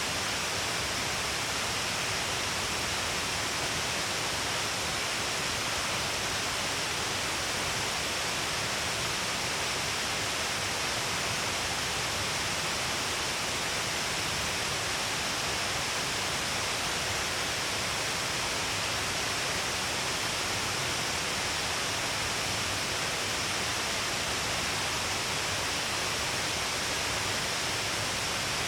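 Shiraito Falls, water pouring in many streams down a long cliff face: a steady, unbroken rushing hiss.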